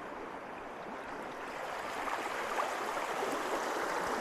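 Steady rush of the West Fork of the Gila River running over rocks at a crossing, growing a little louder over the second half.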